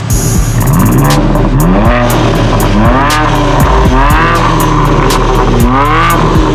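BMW M4 Competition's twin-turbo inline-six, fitted with an Akrapovic titanium slip-on exhaust, being revved in about five quick blips, each rising and falling in pitch. Background music with a steady beat plays under the revs.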